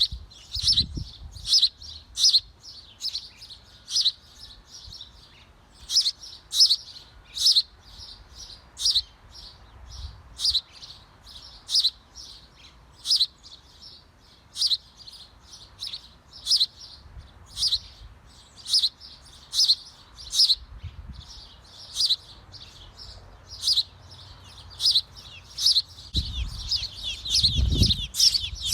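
Small birds chirping over and over, short high-pitched chirps about two a second, with a quicker, denser run of chirps near the end. A low rumbling bump comes in near the end as well.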